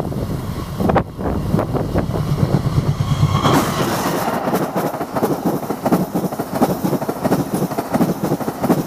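Train passing close by, its wheels clattering rapidly over the rail joints; the clatter grows louder and harsher about three and a half seconds in.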